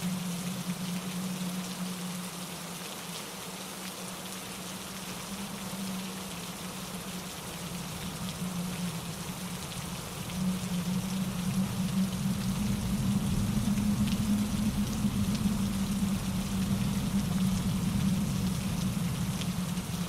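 Steady rain with wind in the trees and a mountain stream tumbling over rocks, an even rushing hiss with a strong low rush underneath. The low rushing grows louder about halfway through.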